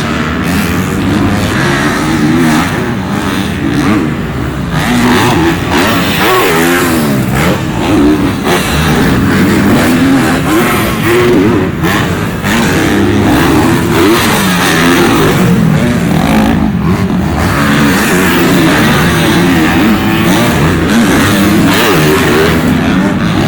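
Supercross dirt bikes racing around the track, engines repeatedly revving up and dropping off as they accelerate and shift, with overlapping engine notes.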